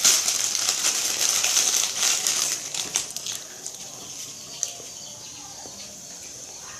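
Dry cream crackers being crunched and chewed close to the microphone: a dense crackling crunch for the first three seconds or so, then fading to a few scattered crackles.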